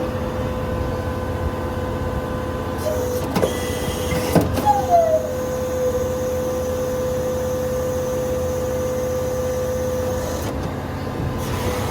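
Ford 6.7-litre Power Stroke diesel running with the PTO engaged, a steady whine over the engine sound. Two sharp clicks about three and a half and four and a half seconds in, followed by a short falling tone.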